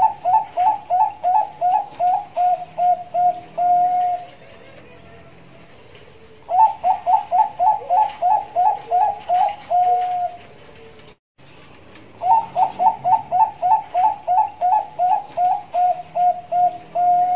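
Zebra dove (Bangkok-type perkutut) singing. Three phrases of quick staccato coos, each ending in a longer held note, come about every six seconds.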